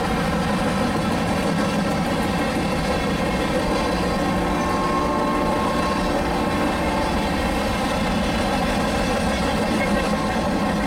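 CN freight train passing steadily, a diesel locomotive engine's even hum over the rumble of the train.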